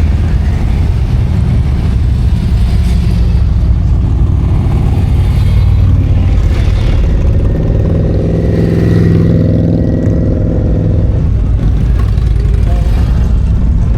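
A group of V-twin cruiser motorcycles pulls out one after another, their engines rumbling and revving in a continuous stream. One bike passes close from about eight to eleven seconds in, its engine note rising and then falling.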